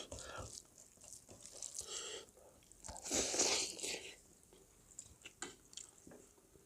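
Close-up eating sounds: a person biting and chewing food, with small mouth clicks. About three seconds in there is a louder noisy burst lasting about a second.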